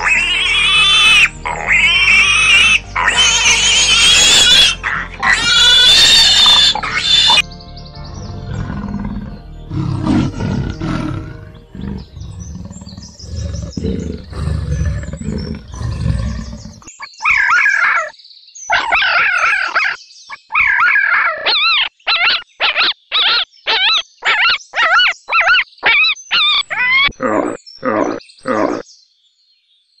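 Animal calls in quick succession: loud high squeals first, then lower grunting calls, then a fast run of short repeated calls, several a second, to the end.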